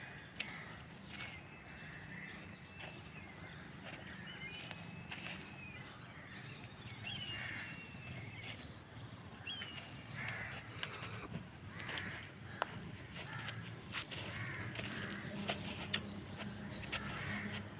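Birds calling outdoors, with harsh caw-like calls repeating more often in the second half. A few sharp clicks stand out above them.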